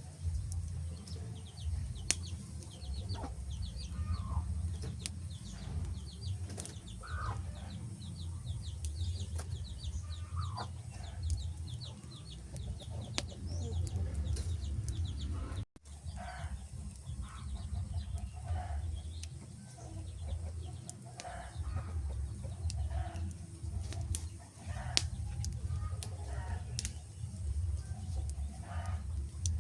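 Wood fire crackling, with scattered sharp pops over a steady low rumble. Short bird-like calls sound throughout, including a rapid high twittering run in the first half.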